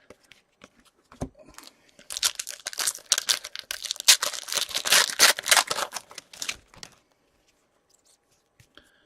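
A foil wrapper on a pack of hockey trading cards being torn open and crinkled, a dense crackling rustle lasting about five seconds, with a few light clicks of card handling before and after.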